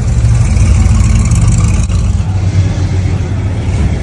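Car engine running with a deep, steady rumble, easing slightly in the second half.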